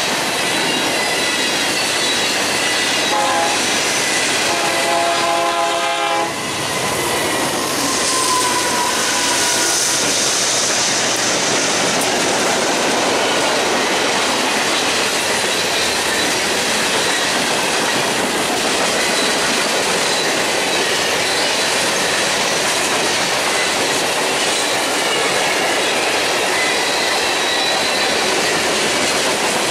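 Freight train cars rolling past close by: a steady, loud noise of steel wheels on the rails. About three seconds in, a locomotive air horn sounds a chord for about three seconds.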